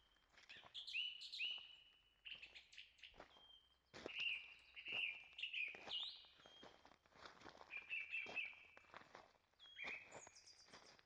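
Songbirds chirping in short repeated notes, with a higher, thinner call near the end. Footsteps of someone walking the forest trail fall in among them.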